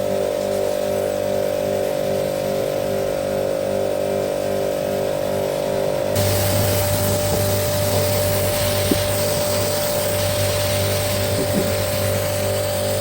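A motor running steadily, changing abruptly about six seconds in to a noisier, lower hum.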